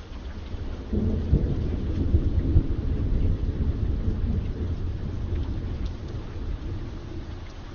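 A thunderclap rumbling over steady rain: a deep rumble comes in sharply about a second in, is loudest over the next couple of seconds, then slowly rolls away while the rain keeps falling.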